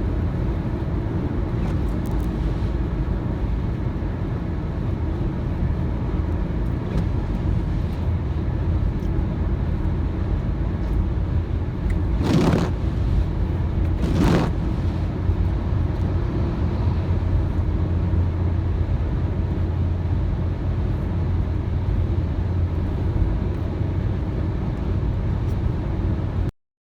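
Car driving on a wet road: steady low rumble of engine and tyres with a hum underneath, and two brief swishes about twelve and fourteen seconds in. The sound cuts off suddenly near the end.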